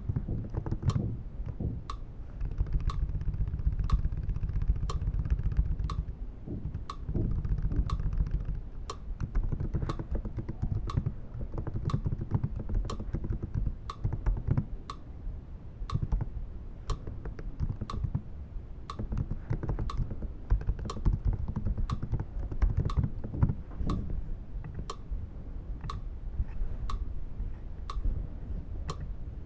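Fingers typing on a computer keyboard, with a steady ticking about twice a second running alongside.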